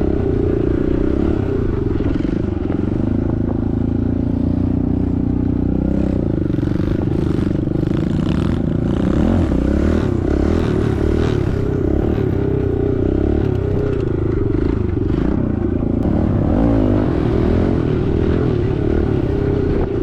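Small single-cylinder four-stroke pit bike engine running under throttle while riding, its pitch rising and falling as the rider works the gas. Scattered clattering and scraping comes through in the middle.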